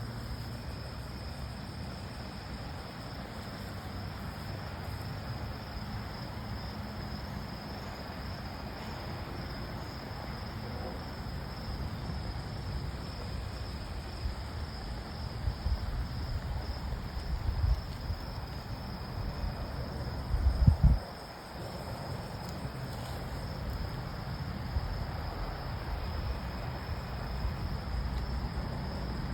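Insects trilling steadily at one high pitch over a low outdoor rumble. About twenty seconds in there is a brief loud low thump.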